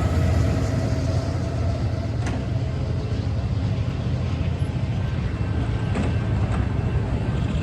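Passing train making a steady low drone, with a few faint clicks.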